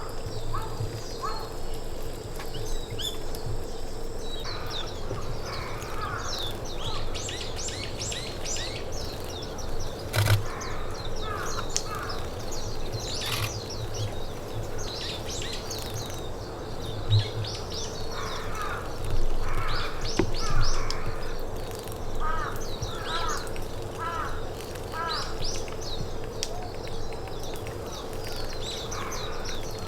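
Wild forest birds calling, with quick high chirps and twitters heard throughout. About two-thirds of the way through comes a run of five lower, repeated calls. A single sharp knock sounds about ten seconds in.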